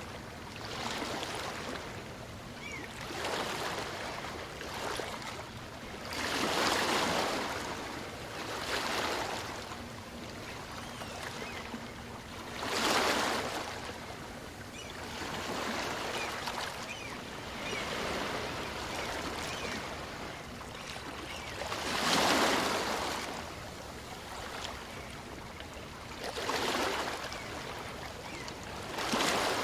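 Small waves of a calm sea breaking and washing onto the shore. The noise swells every few seconds, and a few waves are larger and louder than the rest.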